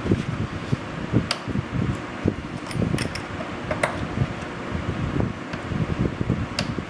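A steady fan-like whir with an uneven low rumble, broken by a few sharp clicks and taps.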